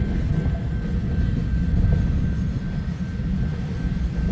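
Freight train cars rolling past at speed: a steady, heavy rumble of steel wheels on rail, with a faint thin steady whine above it.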